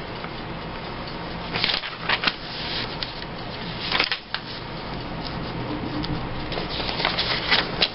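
Paper rustling and sliding in several short bursts as cut-out pictures are sorted through by hand.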